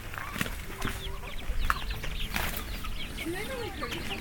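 Chickens clucking, many short calls overlapping, with a few sharp clicks among them.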